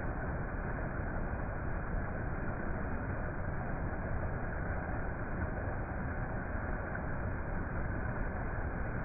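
Steady, unbroken rushing noise, heaviest in the low end, with no distinct events.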